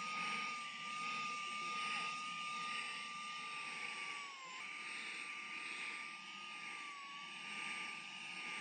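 SAKER 3-in-1 mini handheld vacuum with a brushless motor running, a steady high whine over the rush of air through the nozzle. The whine dips briefly in pitch about four and a half seconds in, then steadies again.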